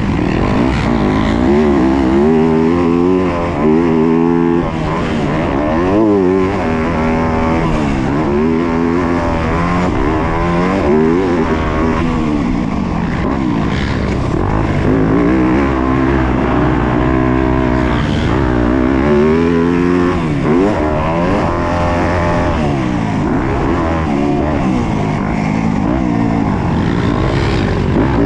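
Yamaha YZ250F motocross bike's single-cylinder four-stroke engine under race riding, its pitch climbing and dropping again and again every second or two as the throttle is worked and gears change.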